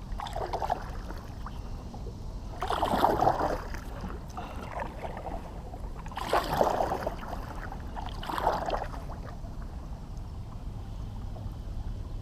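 Kayak paddle strokes dipping and pulling through calm water, four splashy strokes spaced a few seconds apart.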